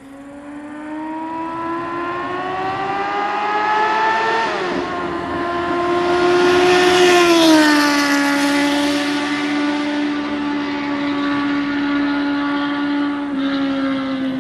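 Yamaha YZF-R1's inline-four sport-bike engine through an aftermarket SC-Project exhaust, accelerating with a rising pitch and a shift about four and a half seconds in. It passes by at its loudest with a dropping pitch, then goes on at a steady note, slowly fading.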